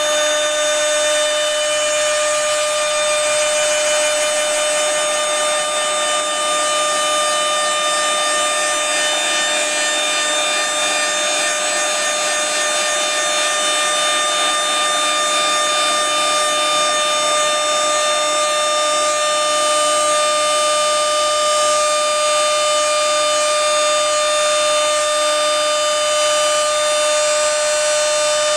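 CNC router spindle cutting an acrylic sheet, a steady high whine with a hiss of cutting noise over it, unchanging throughout.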